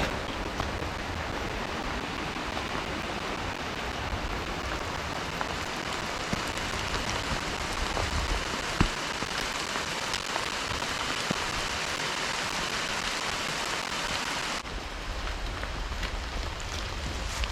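Steady rain falling and pattering on surfaces, with a single sharp knock about halfway through. About three-quarters through, the hiss of the rain abruptly turns duller and lower.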